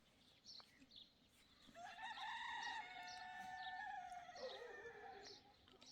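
A rooster crowing once: one long drawn-out call starting a little under two seconds in and dropping in pitch at its end. Small birds chirp faintly throughout.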